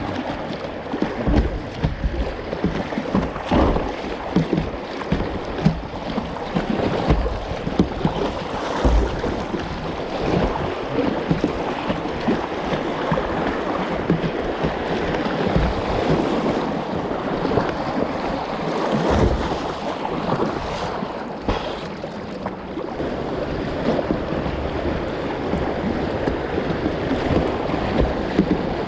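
Moving river water splashing and rushing around a kayak, with wind buffeting the microphone in irregular low gusts.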